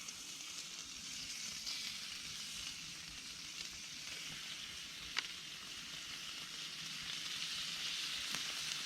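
Bacon sizzling and frying in a pan, a steady hiss with a single sharp pop about five seconds in.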